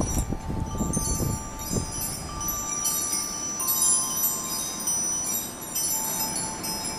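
Wind chimes ringing, many high metallic tones overlapping and fading as they sound in the breeze, with a few low rumbles in the first two seconds.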